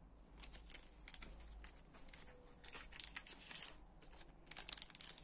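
Rustling and crinkling of thin packaging being handled by hand, coming in three irregular bunches of short crackles and clicks.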